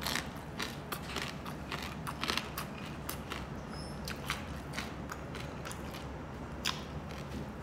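Close-miked chewing of crunchy pork back-fat chicharon (pork crackling): a quick run of crisp crunches that thins out after about three and a half seconds, with one sharper crunch near the end.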